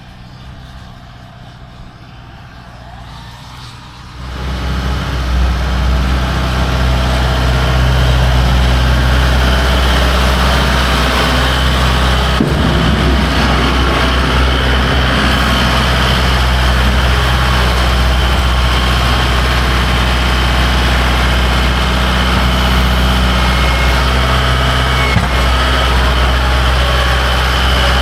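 Tractor engine throttling up about four seconds in, then running steadily and loudly while working the loader bucket to clean out manure.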